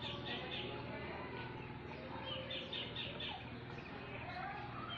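Bird song: a phrase of four or five quick high notes, repeated about every two and a half seconds, with other softer bird calls and a low steady hum behind.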